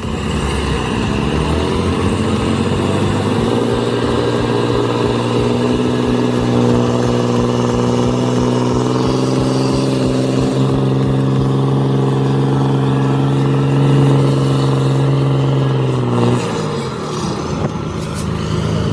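Heavy truck's diesel engine working hard under load: it climbs in pitch over the first few seconds, holds at high revs, then drops back about three-quarters of the way through.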